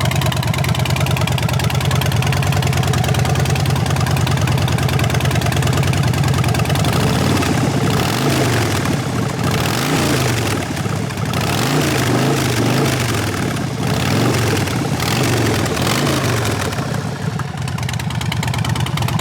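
2016 Harley-Davidson Dyna Street Bob's Twin Cam 103 V-twin through Vance & Hines Shortshots exhaust, idling steadily, then blipped through a series of quick revs that rise and fall about seven seconds in before settling back to idle near the end.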